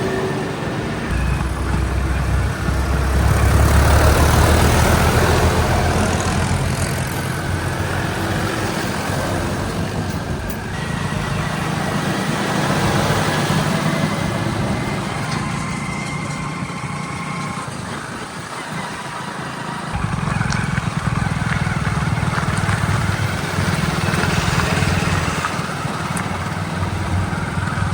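Heavy diesel vehicle engines running at a worksite, swelling louder a few seconds in, then easing and picking up again around the twenty-second mark.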